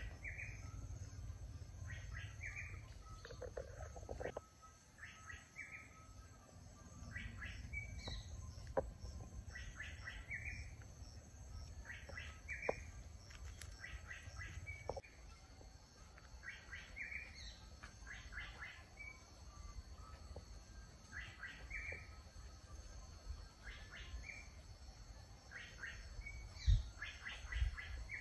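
A bird calling again and again, a short phrase of quick chirping notes about every two seconds, over a low rumble, with a single soft thump near the end.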